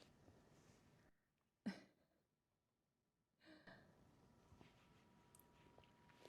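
Near silence: faint room tone, with one short breathy puff like an exhale about a second and a half in.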